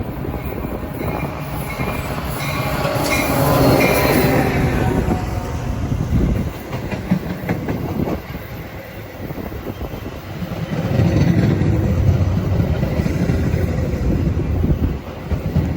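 Metra commuter train running along the tracks at the station, its wheels and cars making a heavy rumble. It is loudest about four seconds in, eases off, then swells again near the end.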